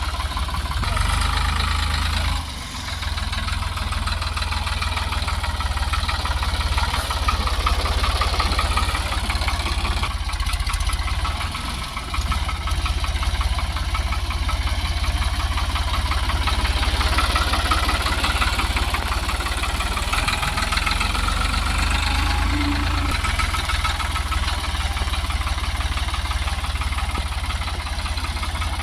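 Tractor engine running steadily under work, dipping briefly twice.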